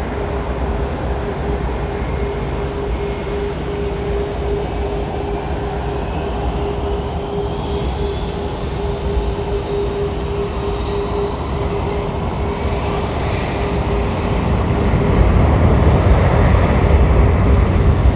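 Airbus A340-600's four Rolls-Royce Trent 500 turbofans running close by: a steady jet rumble with a constant hum and a higher whine that climbs in pitch midway, growing louder over the last few seconds.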